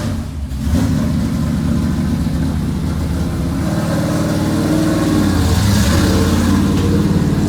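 Super Stock race car's engine running steadily, then revved with its pitch rising about halfway through and settling.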